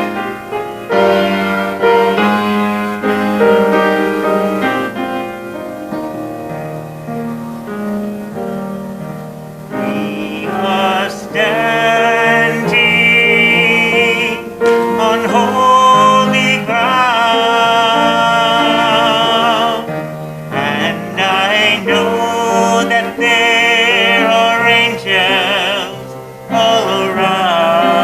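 Piano playing alone at first, then a singing voice with vibrato comes in about ten seconds in over the piano accompaniment.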